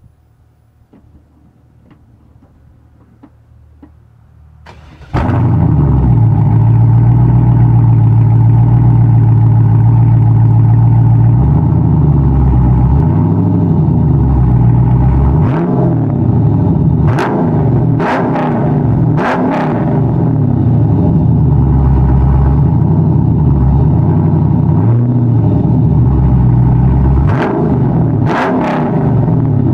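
Pontiac Firebird's LS1 V8 with long-tube headers and a glass-pack exhaust starting about five seconds in, then idling loudly with a steady pulse. In the second half the throttle is blipped quickly several times, in two groups of short revs.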